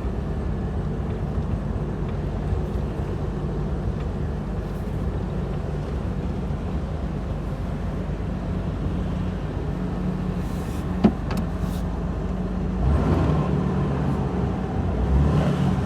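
2000 Jeep Wrangler engine running with road noise while driving, a steady low hum. A single sharp click comes about eleven seconds in, and the engine note rises and gets louder near the end.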